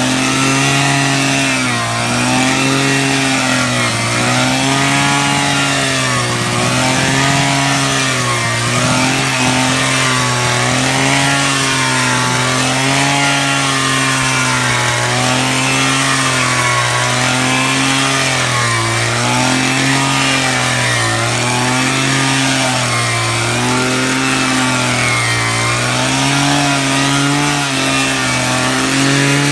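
Electric drill motor running continuously, its pitch rising and dipping in a regular cycle about every two seconds.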